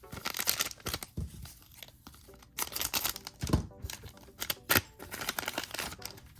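Trading-card booster pack wrapper crinkling and tearing as it is opened, in two bursts of rustling with sharp crackles, over faint background music.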